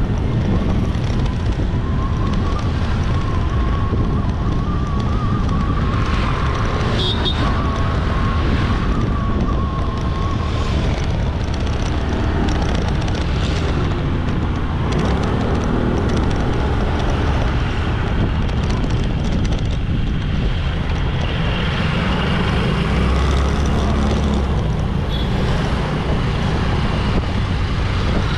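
Riding a motorbike through busy road traffic: engine and road noise with wind buffeting the microphone. A wavering high tone is heard from about two seconds in for some eight seconds, and a deeper rumble swells about two-thirds of the way through.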